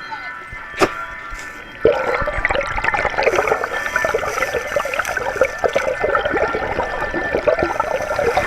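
Gurgling, rushing water-like noise over a drone of held tones. There is a single click just under a second in, and the water sound comes in sharply about two seconds in.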